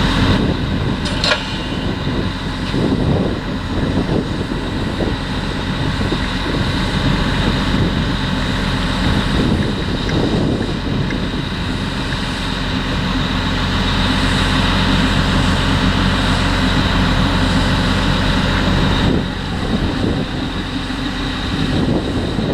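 Heavy diesel farm machinery used in potato harvesting running steadily under load: a constant engine drone with fluctuating mechanical noise over it. There is a short sharp tick about a second in and a brief drop in level near the end.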